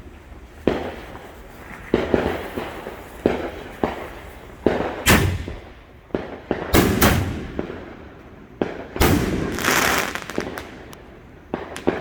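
Consumer fireworks going off: a string of sharp bangs and booms at irregular intervals of about a second, each trailing off in an echo. About nine seconds in comes a longer, hissing burst.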